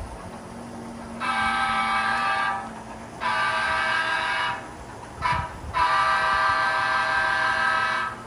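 Diesel locomotive horn sounding the grade-crossing pattern: two long blasts, a short one and a final long one, a steady multi-note chord, played through a model locomotive's sound system.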